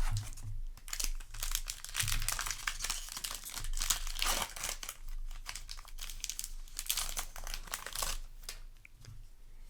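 Foil wrapper of a Magic: The Gathering play booster pack crinkling as it is handled and torn open, in a run of crackly bursts that is busiest through the middle and dies down near the end.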